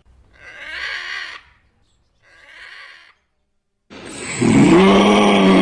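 Animal calls: two rough, noisy calls and a fainter third, then a loud, drawn-out pitched call beginning about four seconds in.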